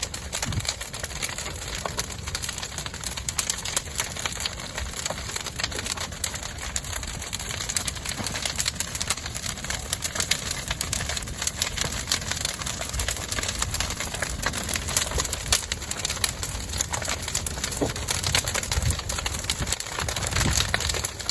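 Bonfire burning with a dense, continuous crackling and popping, over a steady low rumble.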